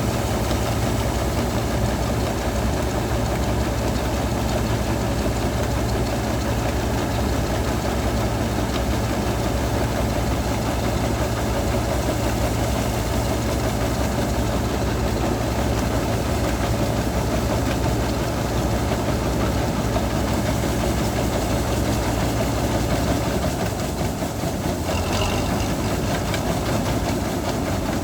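Bizon Z056 combine harvester's diesel engine running steadily. About 23 seconds in, its low note drops and the level dips slightly, then it runs on.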